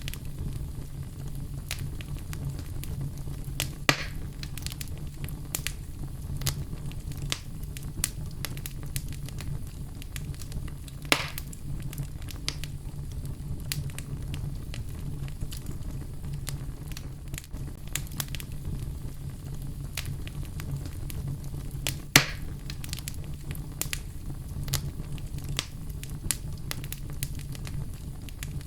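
Wood fire in a fireplace crackling steadily, with dense small snaps and three louder sharp pops, over a steady low rumble.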